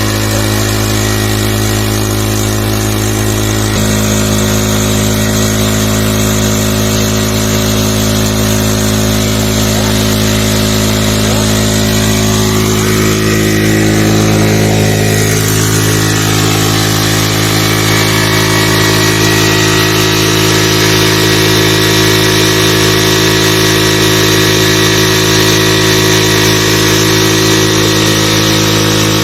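Honda CD 70 motorcycle's small single-cylinder four-stroke engine running steadily while driving a tubewell water pump. Its note changes a little about four seconds in.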